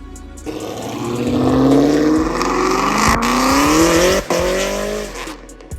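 Chevrolet Camaro ZL1's supercharged V8 accelerating hard, its engine pitch climbing steadily for about four seconds before fading away.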